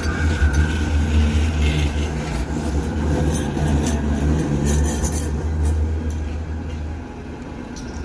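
Steady low rumble of city-centre traffic around a tram stop, easing off about seven seconds in.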